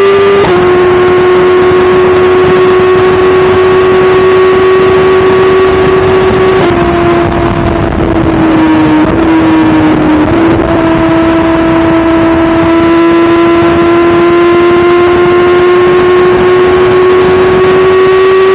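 2017 BMW S1000RR's inline-four engine running at speed, its pitch holding steady for several seconds. The pitch sags for a few seconds past the middle, then jumps back up and climbs slowly as the bike pulls again.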